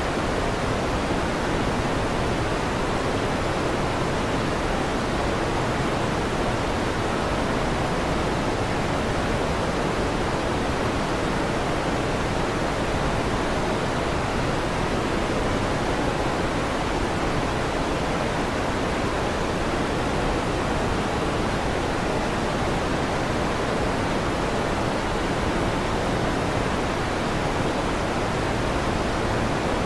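Electric fan running with a steady, even rushing noise that does not change.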